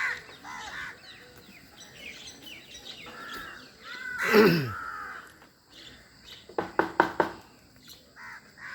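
Crows cawing repeatedly while gathering for food. About four seconds in comes a louder sound that falls steeply in pitch, and near seven seconds a quick cluster of sharp knocks.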